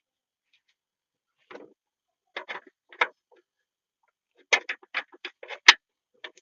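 Sharp clicks and knocks: a few scattered ones, then a quick run of them in the last two seconds, the loudest about a second before the end.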